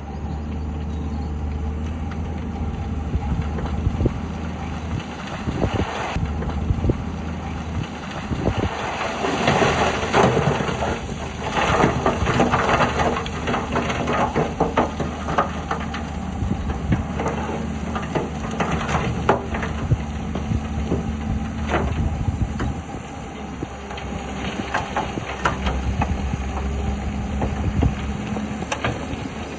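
Heavy diesel earthmoving machinery working: a bulldozer and dump trucks with engines running steadily, over frequent clanks and crunching of rock and soil, busiest about a third of the way in.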